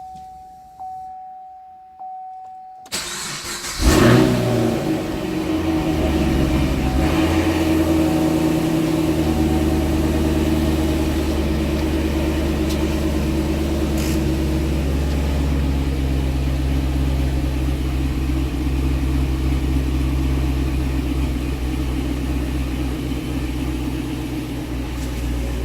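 A steady electronic tone for about three seconds, then the 2013 Camaro SS 1LE's 6.2-litre LS3 V8 cranks and fires on a cold start with a loud flare about four seconds in. It settles into a steady fast idle through its Corsa exhaust.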